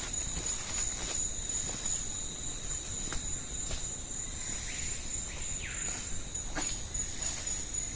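Rainforest insects droning in a steady high-pitched chorus, with a second lower steady tone beneath, scattered small ticks and snaps, and a couple of short falling calls about five seconds in.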